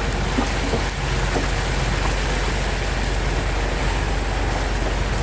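Boat under way: a steady engine hum under a constant rush of water and wind.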